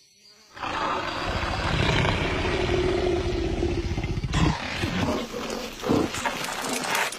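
A loud animal roar: one long roar lasting about four seconds, then several shorter roars.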